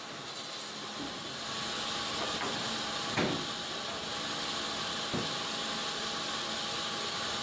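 Mobile band sawmill with an electric motor running: a steady hiss with a faint hum, and two short knocks about three and five seconds in.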